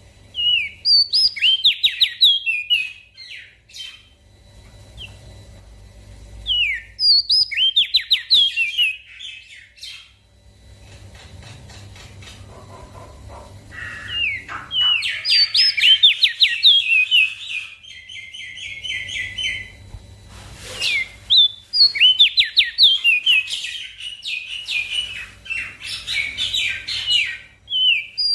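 Crested white-eye (opior jambul) singing: phrases of rapid, downward-sliding high notes, each lasting a few seconds with short pauses between, the longest and densest run starting about halfway through.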